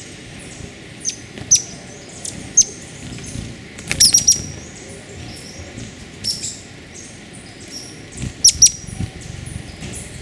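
Small birds calling: short, sharp, high-pitched chirps at irregular intervals over a steady outdoor hiss, with a loud cluster about four seconds in and another near the end.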